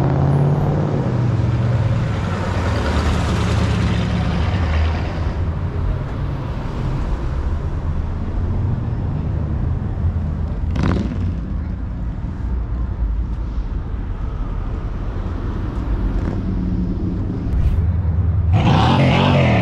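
Car engines rumbling steadily as vehicles cruise slowly past on the street, with a louder surge of sound near the end.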